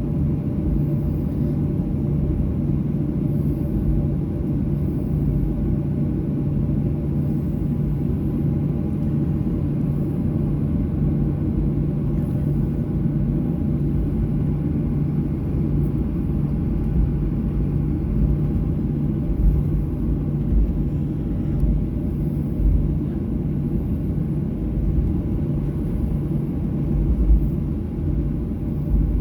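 Steady cabin rumble of a taxiing Boeing 737-800, its CFM56 engines idling with a low hum and a few steady tones. Occasional low thumps come in the second half.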